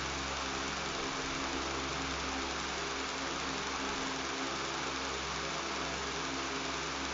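Electric fan running with a steady buzz: an even hiss over a low, constant hum.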